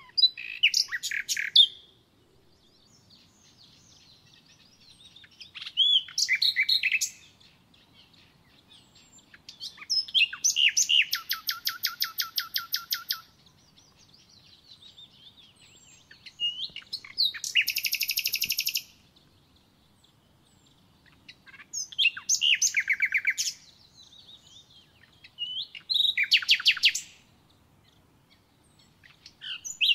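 A songbird singing loud, short phrases of quick high notes that run into fast, even trills. The phrases repeat every four to six seconds, with quiet gaps between them.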